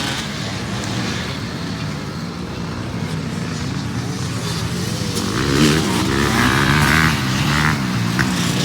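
Motocross bike engines revving up and down as they race, the sound growing louder about five seconds in.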